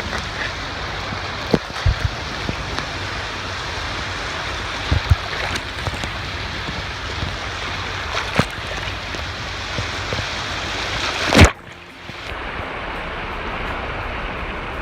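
Sea water washing and rushing, a steady noise with a few short knocks. About eleven and a half seconds in there is a loud bump, after which the sound drops off suddenly and slowly builds back.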